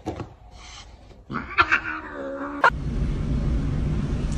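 A cat's drawn-out meow, lasting just over a second and starting about a second in. It ends in a sharp click, followed by a steady low rumble.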